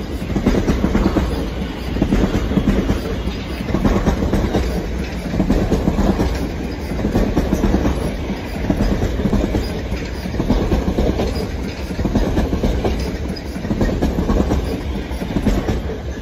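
Electric multiple-unit passenger train passing close by at speed. Its wheels clatter over the rails and its loud rushing noise swells and eases in a regular rhythm as the coaches go past.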